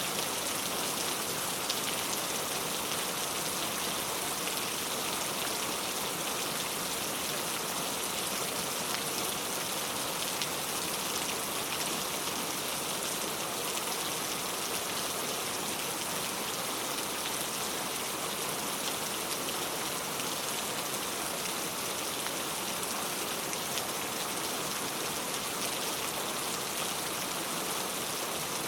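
Heavy rain falling steadily, a dense even hiss of drops with faint scattered ticks.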